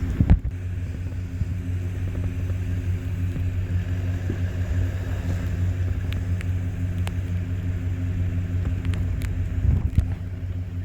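A vehicle engine idling steadily, with a sharp knock just after the start and a short cluster of knocks near the end.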